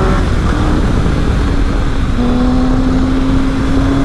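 Triumph Speed Triple's inline three-cylinder engine on the move, with heavy wind rush: the climbing engine note breaks off at a gear change at the start, then settles and climbs slowly again from about two seconds in.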